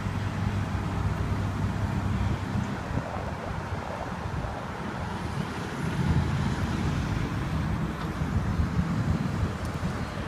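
Wind buffeting the microphone outdoors: a steady low rumble that swells about six seconds in.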